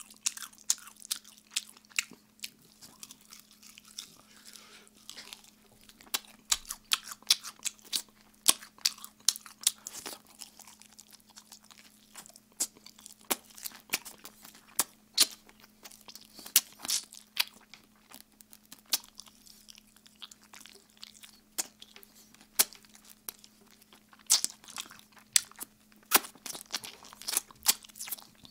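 Close-miked chewing of Kyochon Red Combo fried chicken: wet chewing with many sharp, irregular crunches of crisp coated chicken.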